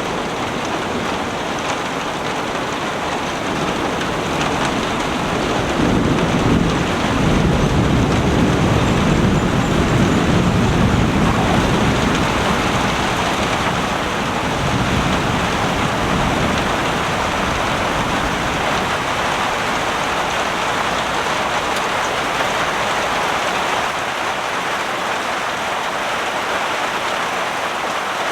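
Heavy rain falling steadily. A low rumble swells about six seconds in and dies away over the next several seconds, with a weaker swell a little later.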